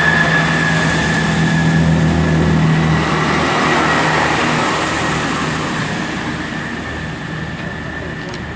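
Class 166 Networker Turbo diesel multiple unit pulling away, its diesel engines running loud at first and then fading steadily as it draws off.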